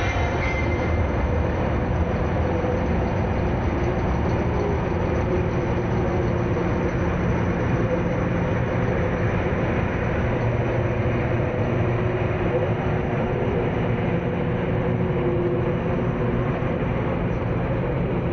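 Train running steadily along the track, hauled by a WAP-class electric locomotive: a continuous, even rumble with a few faint steady tones.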